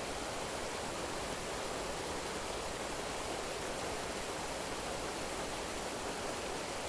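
Steady, even rush of flowing water, with no change in level or pattern.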